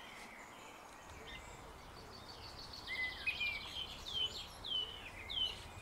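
Birds singing: from about three seconds in, a series of short slurred whistled notes repeated every half second or so, together with a quick high trill, over a faint steady outdoor hiss.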